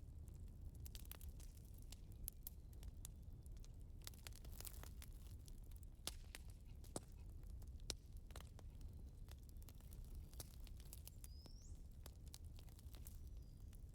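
Wood fire burning: faint irregular crackles and pops over a low steady rumble, with a short high squeak about eleven seconds in.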